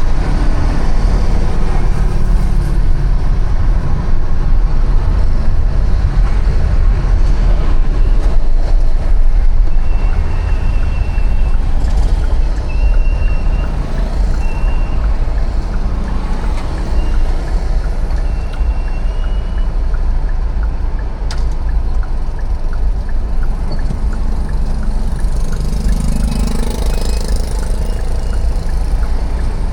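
City street traffic heard from a moving bicycle: a steady wash of motor vehicles going by, under a heavy low rumble. A few short, high squeaks come in the middle, and there is a single sharp click a little later.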